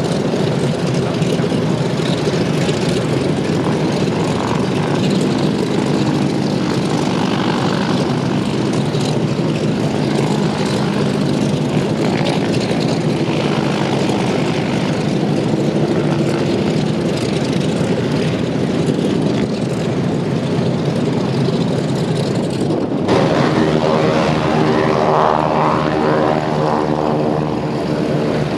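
Douglas DC-3/C-47 Dakota twin radial piston engines and propellers running loudly and steadily. About 23 s in the sound changes abruptly to a closer engine with a clear, steady pitched drone.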